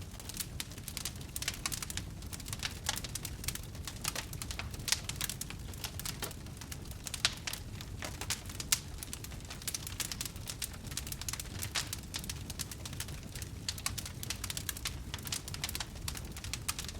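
Wood fire crackling: many sharp, irregular pops and snaps over a steady low rumble, with a couple of louder pops about five and nine seconds in.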